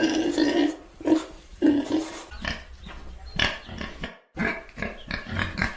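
A series of separate low animal calls, with a break in the sound about four seconds in.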